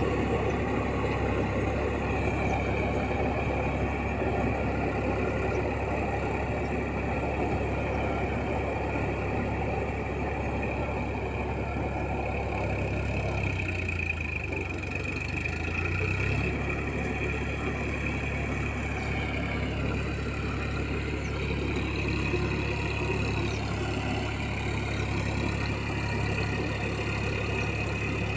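Massey Ferguson 9000 tractor's diesel engine running steadily while puddling a muddy field, with a high whine over the engine note. About halfway through, the engine note sags for a few seconds, then picks back up.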